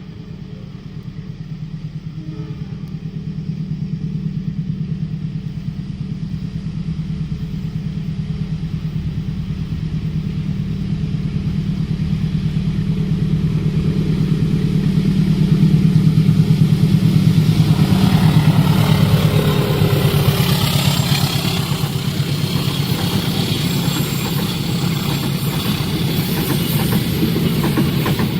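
Diesel-hauled passenger train approaching: the locomotive's engine drone grows steadily louder, and from about two-thirds of the way in the hiss and clatter of wheels on the rails joins it as the train reaches the crossing.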